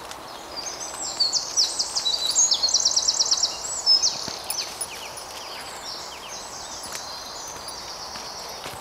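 A songbird singing a high, fast song of quick notes, with a rapid trill in the middle that is the loudest part, about a second to four seconds in; fainter song carries on after it.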